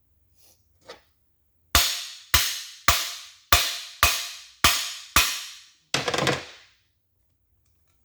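Seven ringing hammer blows about half a second apart on a cam bearing installer, driving a cam bearing into a Chevy 283 block, followed by a short metallic rattle.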